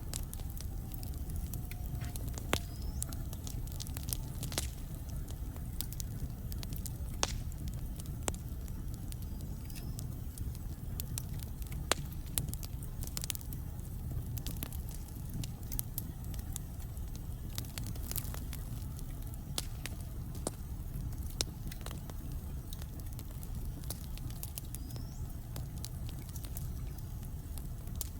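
Wood fire burning in a fireplace: irregular sharp crackles and pops over a steady low rumble, with a few louder pops now and then.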